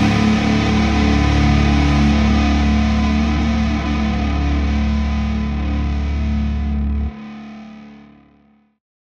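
A punk band's final chord on distorted electric guitar, held and ringing out after the song ends. About seven seconds in the deep low end cuts off sharply, and the remaining guitar fades to silence over the next second and a half.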